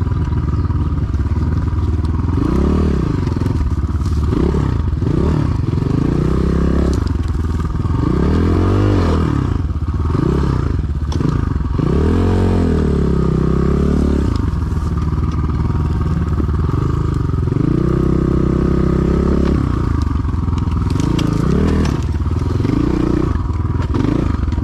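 Enduro dirt bike engine revving up and down again and again as the throttle is worked in short bursts, with a longer held rev later on.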